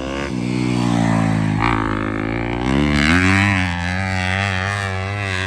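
250cc four-stroke single-cylinder dirt bike engine running, with two short throttle blips, then revving higher about three seconds in and holding there with a slight wobble.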